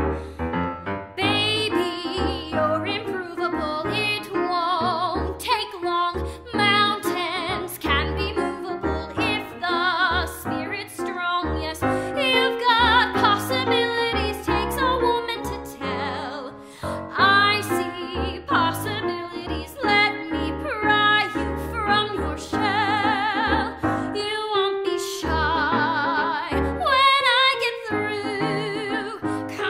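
A woman singing a Broadway show tune in a full voice with vibrato, over piano accompaniment.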